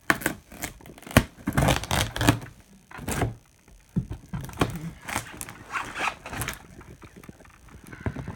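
A package being opened by hand: packaging tearing and rustling in irregular bursts, with a few sharp knocks.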